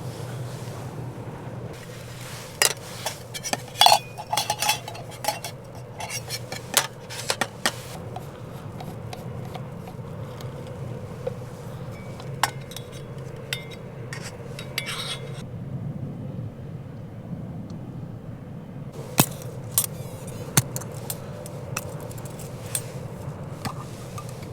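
Metal camp cookware and utensils clinking and knocking, in bursts of sharp clatter with pauses between, over a steady low background rumble.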